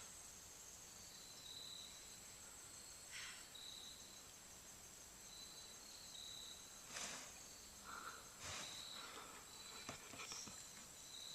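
Near silence: faint, high insect chirps repeating, with a few soft rustles.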